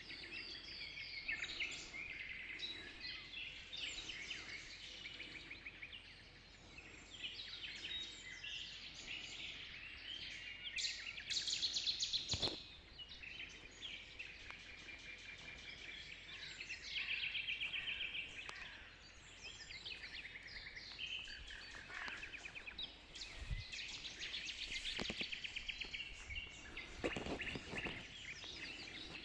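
Dawn chorus: several birds singing at once, with overlapping chirps and rapid trills that keep on without a break. A single sharp click is heard about midway.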